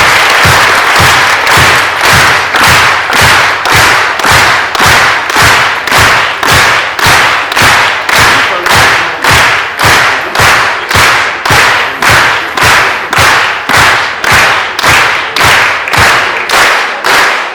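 Audience clapping in unison to a steady beat, about two claps a second, each clap with a low thud beneath it.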